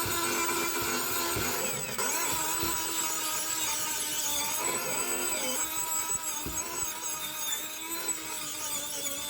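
Electric power tool running steadily on metal, its pitch sagging and recovering as the load changes.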